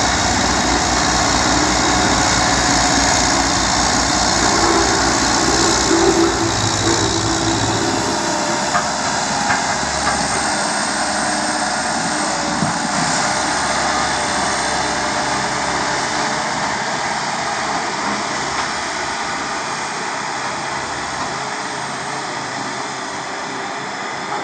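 A heavy engine running at the road works, its low, even pulsing strong for about the first eight seconds and then dropping away, over a steady wash of mechanical noise.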